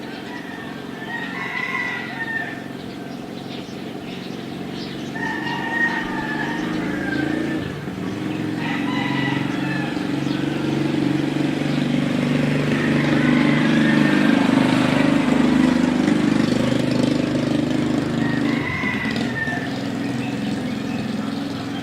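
Roosters crowing repeatedly, about five or six times, while a motor vehicle drives past, growing louder to a peak near the middle and then fading.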